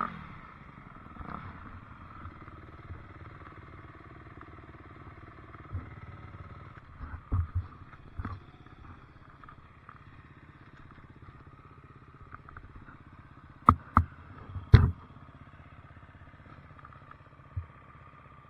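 Dirt bike engine running steadily at low revs. A few dull thumps come about a third of the way in, then three sharp knocks in quick succession about three quarters of the way through.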